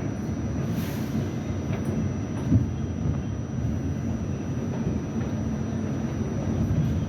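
R68 subway train running with a steady low rumble. A brief hiss comes about a second in, and a single knock about two and a half seconds in.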